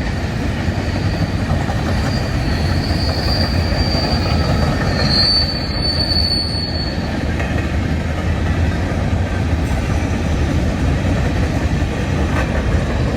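Long freight train rolling past, its wheels on the rails making a steady rumble and clatter. A high wheel squeal comes in about two seconds in and lasts a few seconds.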